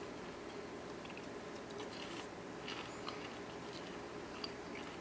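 Faint chewing of a crispy, breadcrumb-coated deep-fried zucchini stick, with a few soft crunches now and then.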